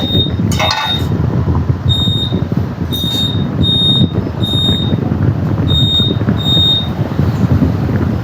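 Steady low mechanical rumble with short, high-pitched electronic beeps repeating irregularly, about seven of them, that stop about seven seconds in.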